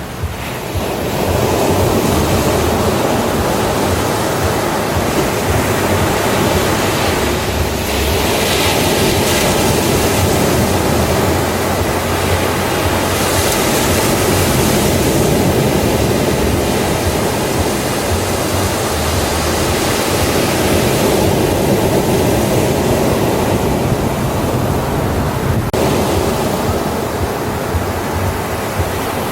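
Ocean surf on a beach: a continuous wash of breaking waves, with brighter hissing swells as waves break about eight and thirteen seconds in.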